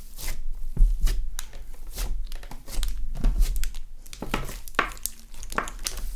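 Slime being squished and stretched by hand, making irregular crackling and popping sounds.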